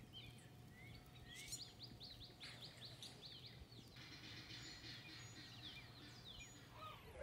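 Faint birdsong over quiet outdoor ambience. About a second and a half in, a bird gives a fast run of short falling chirps, followed by scattered chirps.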